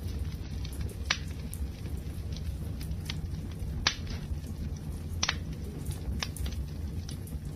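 Wood fire burning: a steady low rumble of flames with scattered sharp crackles and a handful of louder pops from the burning wood.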